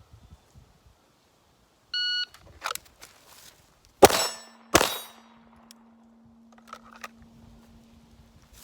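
A shot timer beeps once, briefly, and about two seconds later a handgun fires two shots roughly 0.7 s apart. After the shots a steady low ringing lingers for several seconds, as from a struck AR500 steel target.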